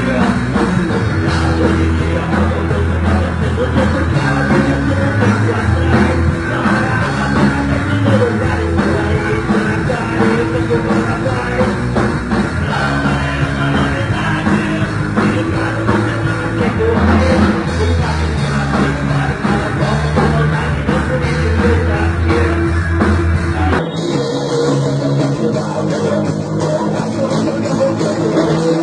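Rock music with drum kit, guitar and bass, played loud and steady. Near the end the bass drops away and the sound thins.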